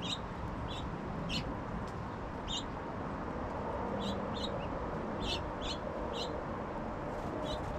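Small songbirds giving short, high chirps, a dozen or so scattered irregularly, over a steady background hiss.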